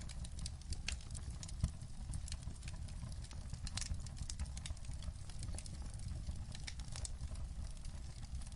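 Wood fire crackling in a fireplace: many irregular snaps and pops over a steady low rumble, with one louder pop about a second and a half in.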